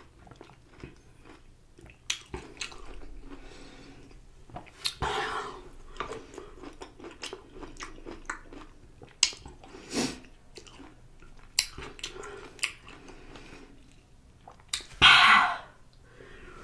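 Close-miked chewing of a juicy spicy pickle, with wet mouth clicks. Two louder bursts of noise stand out, the loudest near the end.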